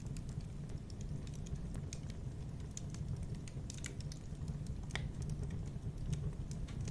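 Fireplace fire crackling: irregular sharp snaps and pops over a steady low rumble of the burning, with one louder pop about five seconds in.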